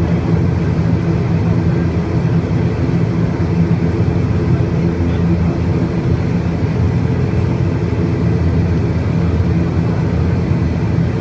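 Steady, loud engine rumble with a faint steady hum over it, holding even throughout.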